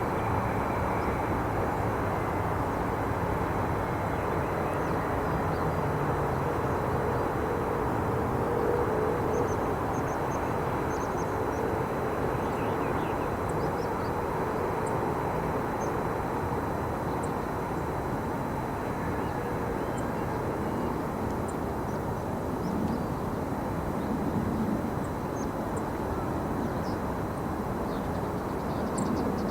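Steady distant engine rumble, a low background drone with a faintly shifting pitch, with faint short high bird chirps scattered through it.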